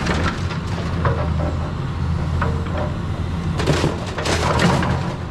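A machine's engine running steadily at a low pitch, with short bursts of clattering that cluster about four seconds in.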